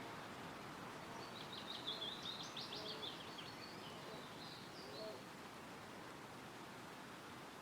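Light wind rustling through trees as a steady hiss, with a small songbird singing one rapid phrase of high notes from about a second in, lasting a couple of seconds, and a few faint notes after it.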